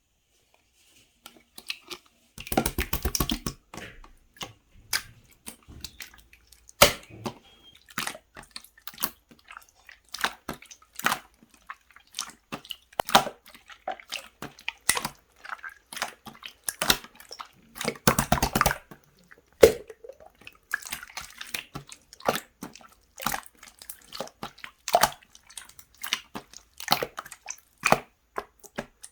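Clear slime being squeezed, stretched and poked by hand, giving irregular sticky clicks, pops and squelches, with a longer crackling squish a few seconds in and again about two-thirds of the way through.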